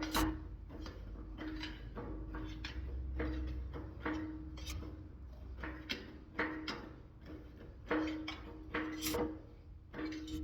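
Sheet-metal panel being worked back and forth through an English wheel, with repeated irregular clanks and knocks, many followed by a short metallic ringing tone from the panel.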